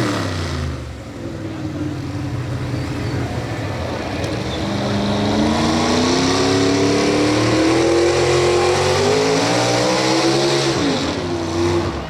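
Pro Stock 4x4 pulling truck's engine coming off full throttle, its pitch dropping sharply at the start. It then runs low and revs up in a long, slow rise, and drops back near the end.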